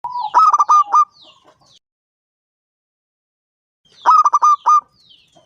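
Zebra dove (perkutut) singing: two short phrases of its quick, staccato cooing, each about a second long of several rapid notes, one at the start and another about four seconds in.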